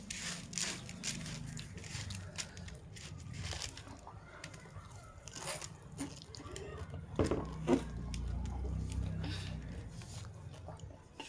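Close-up eating sounds: food bitten and chewed with a scatter of crisp crunches and crackles, some of them tearing.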